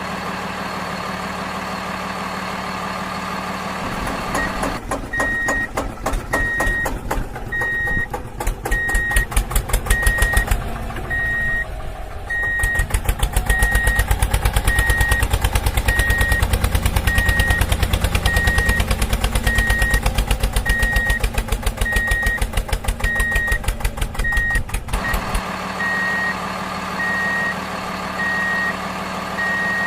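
A heavy diesel engine idles, then from about four seconds in it runs hard with a loud, fast pulsing that lasts until about 25 seconds in, before dropping back to idle. Under this, a vehicle's reversing alarm beeps steadily, about three beeps every two seconds.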